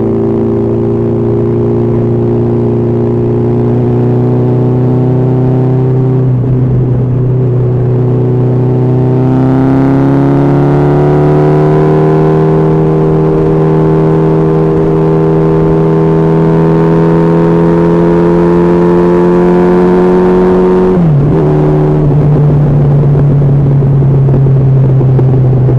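Honda CB1300SF's inline-four engine running at highway speed. Its pitch climbs as it accelerates about a third of the way in, holds steady, then drops suddenly near the end before running steady again at a lower pitch.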